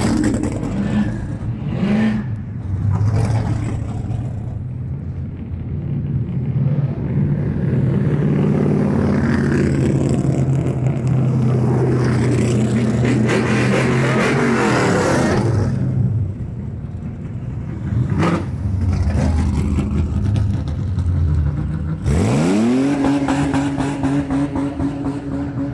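Cars driving past one after another with their engines running and revving. About 22 seconds in, one engine revs up sharply and holds at a high pitch.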